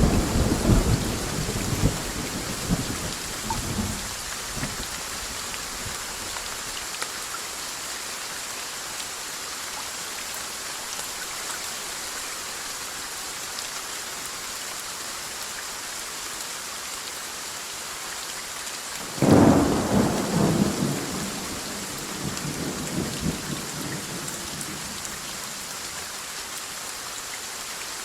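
Steady heavy rain with thunder. A loud thunderclap at the start rumbles away over about four seconds, and a second clap about nineteen seconds in rolls on for several seconds before fading back to the rain.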